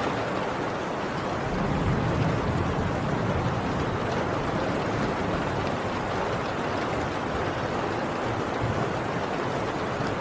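Heavy rain pouring steadily on a tin roof, an even, dense hiss. A low rumble, typical of distant thunder, swells briefly about two seconds in.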